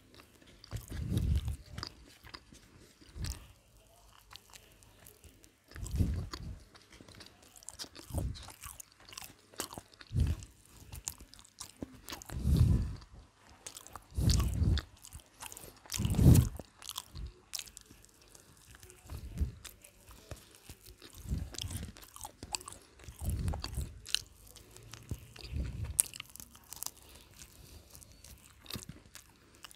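Close-miked chewing and biting of McDonald's fried chicken: crunches of the breaded skin and wet chewing, coming in irregular bursts every second or two.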